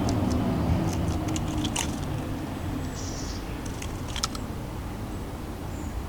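Low rumble of road traffic fading away, with scattered sharp high ticks and a brief high chirp from small birds at the feeder.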